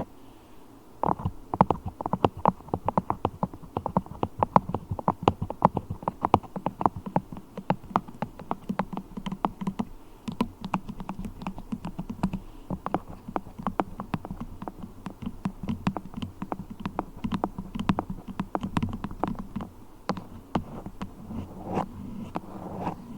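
Beeswax worked by fingers close to the microphone: a fast, uneven run of sticky clicks and crackles.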